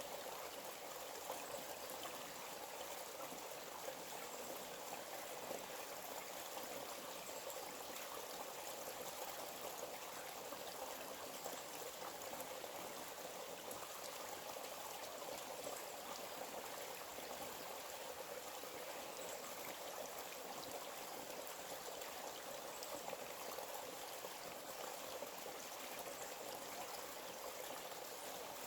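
Small forest stream flowing, a steady, even rush and trickle of water.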